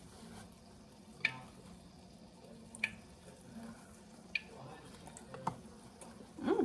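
Fried pickles being bitten and chewed: a few sharp, separate crunchy clicks spaced a second or so apart, then a brief voice sound near the end.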